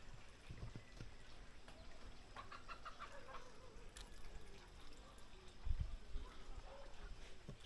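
Chicken clucking: a quick run of clucks about two and a half seconds in, trailing into a lower falling note. A couple of low thumps near the end.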